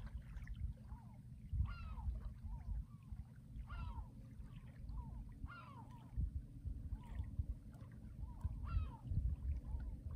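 A bird calling over and over, a loud call falling in pitch about every two seconds with fainter calls between, over a low rumble.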